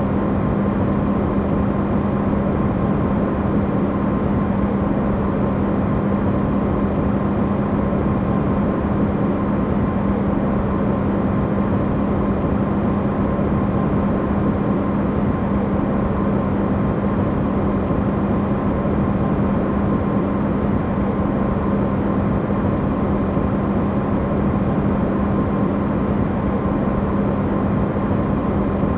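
Amplified sound of an Electrolux refrigerator running: a steady low hum over an even rushing noise, with a faint higher tone above it, unchanging throughout.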